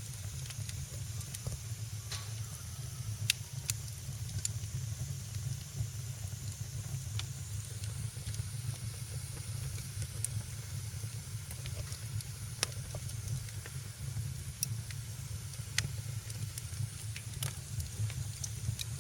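Wood fire crackling in a fireplace: a steady low rumble and hiss with sharp pops every second or two.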